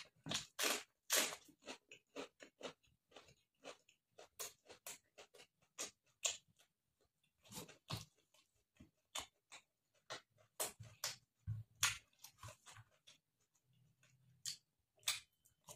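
A person chewing with irregular crunches, eating mouthfuls of rice and pork wrapped in a raw cabbage leaf.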